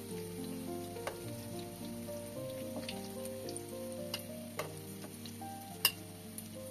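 Kebab patties sizzling in hot oil in a pan, with a metal spoon clinking against the pan and plate as they are lifted out; the sharpest clink comes near the end. A soft melody plays over it.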